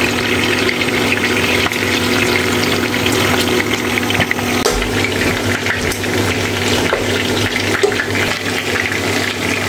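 Chicken wings frying in hot oil in a pan: a steady sizzle dotted with fine crackles of spattering fat, over a steady low hum.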